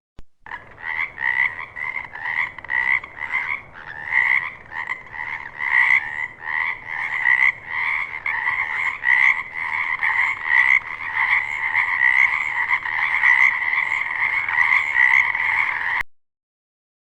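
Frogs croaking in a chorus: a dense run of rapid, repeated calls, about two or three a second, that stops abruptly about a second before the end.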